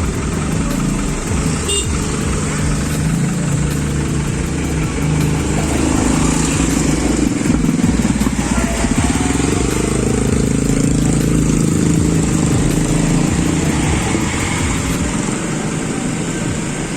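Heavy truck diesel engine working under load during an attempt to tow a bogged truck out. Its pitch sags about halfway through, then climbs again.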